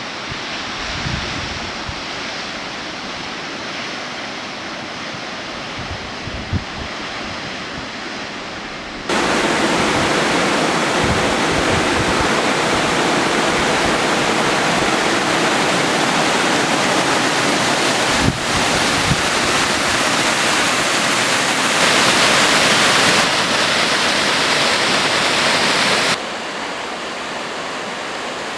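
Waterfall rushing, a steady hiss of falling water. It gets louder and brighter about nine seconds in and falls back near the end.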